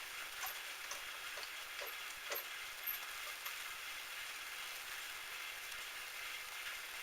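A few light, sharp clicks and taps, about one every half second in the first half, over a faint steady hiss; a small part or tool being handled at a metal lathe.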